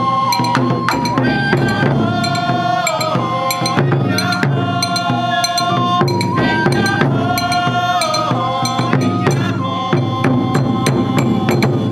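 Japanese taiko drums struck in a fast, driving rhythm, with a held melody line over them that glides between notes.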